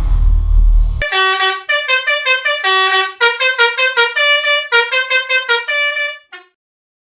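A low engine rumble for about a second, then a telolet multi-tone truck horn plays a quick tune of short stepped notes for about five seconds and stops shortly before the end.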